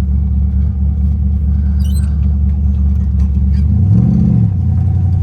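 1968 Camaro's 327 small-block V8 running steadily while driving, with a brief rev that rises and falls about four seconds in. It is running smoothly again now that a dead-cylinder misfire has been fixed.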